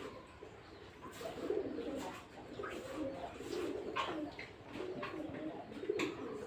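Pet birds calling continually: a run of low, cooing sounds mixed with short, higher chirps.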